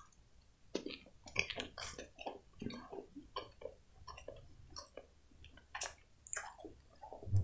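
Faint chewing of a soft cupcake topped with whipped cream: a loose string of short, wet mouth clicks and smacks.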